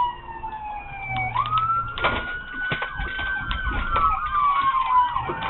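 Police siren wailing: a slow falling tone that sweeps back up just over a second in, holds high, then slowly falls again, with a quick rapid warble starting near the end.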